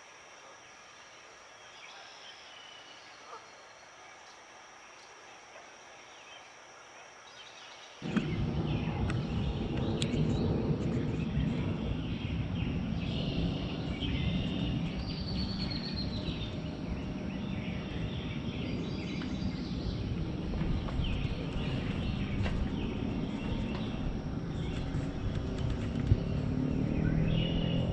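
Red-winged blackbirds calling in a marsh, at first faint over a steady high insect drone. About eight seconds in, a loud low rumbling noise sets in abruptly and runs under the continuing bird calls.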